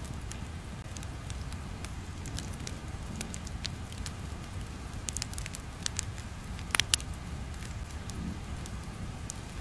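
Crackling ambience sound effect: a steady low rumble under scattered sharp crackles and pops, with a small cluster of louder pops about seven seconds in.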